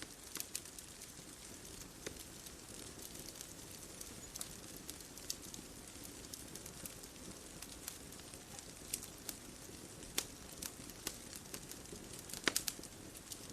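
Bonfire crackling: irregular sharp pops and snaps over a soft steady hiss, with a quick cluster of pops near the end.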